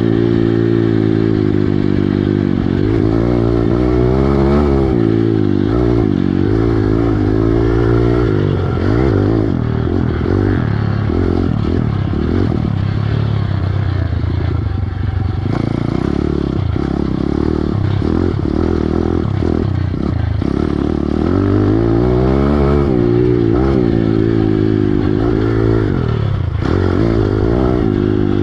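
Piranha 140 pit bike's single-cylinder four-stroke engine being ridden hard, its revs climbing and dropping again and again as the throttle is opened and closed.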